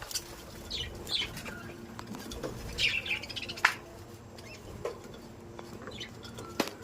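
Budgerigars giving short, scattered chirps, with a couple of sharp knocks.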